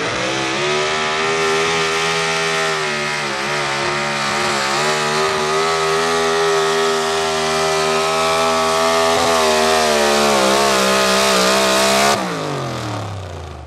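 Modified 4x4 pulling truck's engine held at high revs under full throttle for a long pull. About twelve seconds in, the throttle is lifted and the revs fall away.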